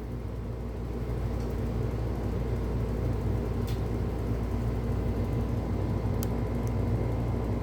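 A steady low mechanical hum, with a few faint, short clicks scattered through it.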